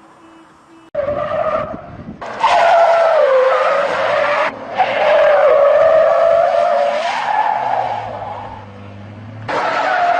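Car tyres squealing in long skids, a loud wavering squeal broken into several stretches that start and stop abruptly, after a quiet first second.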